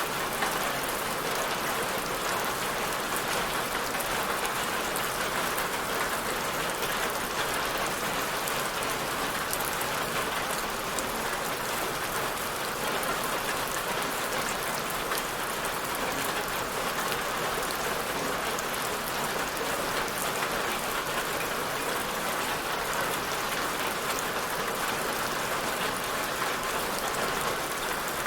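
Steady rain falling on a surface, a continuous even hiss with fine pattering of drops.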